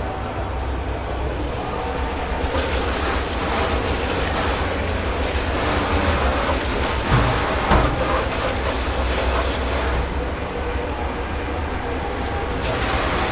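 Commercial kitchen dish pit noise: a steady low machine rumble, with a loud hiss that comes on about two and a half seconds in, stops about ten seconds in and returns near the end, and two knocks a half-second apart in the middle.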